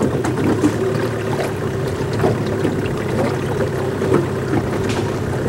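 Boat motor running steadily, a constant hum with several steady tones under a haze of noise.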